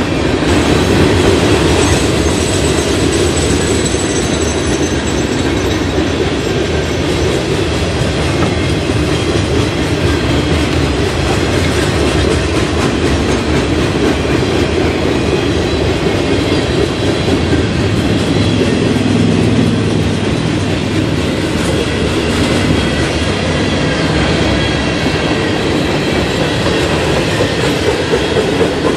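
Freight cars of a mixed manifest train (covered hoppers, boxcars, tank cars) rolling past at trackside: a steady loud rumble and rattle of steel wheels on rail. A faint high-pitched wheel squeal comes in for a few seconds near the start.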